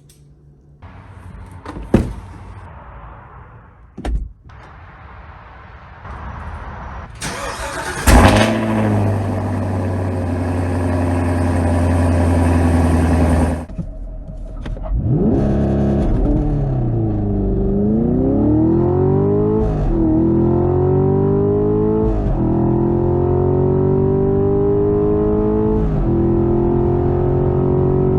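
2023 Camaro SS's 6.2-litre V8, manual gearbox: a few clicks, then the engine starts with a rev flare about eight seconds in and runs steadily until a sudden break. The engine then revs up, dips and pulls hard at full throttle, its pitch climbing through several quick upshifts done without lifting off.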